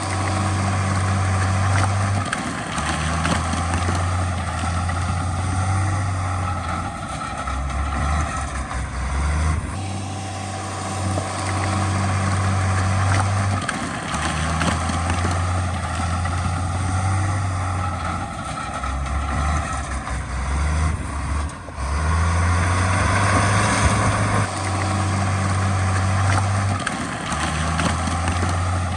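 Heavy diesel earthmoving machinery running under load. The engine note shifts every few seconds as the work goes on.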